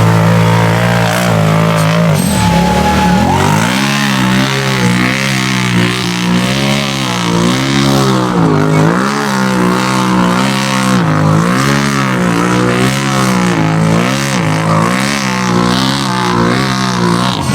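An off-road vehicle's engine running hard at high revs, its pitch rising and falling over and over as the throttle and load change.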